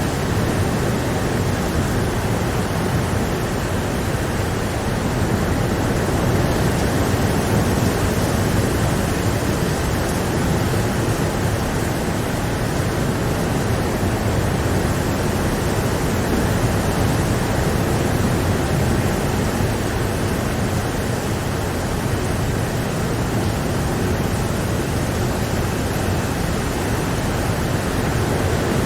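Steady rain, an even hiss with no breaks or single drops standing out.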